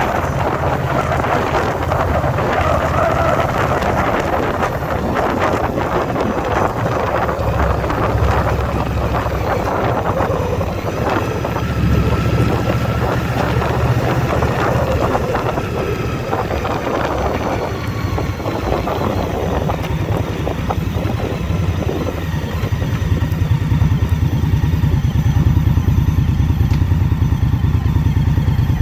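2021 Indian Scout Bobber Twenty's V-twin engine running under way, with wind rushing over the microphone. The engine note gets a little louder in the last few seconds.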